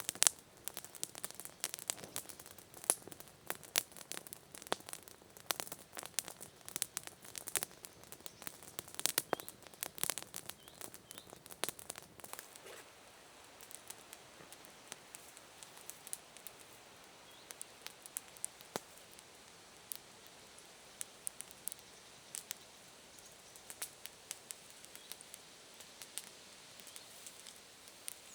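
Wood campfire crackling: sharp, irregular pops and snaps over a faint steady hiss, thick for the first dozen seconds and sparser after that.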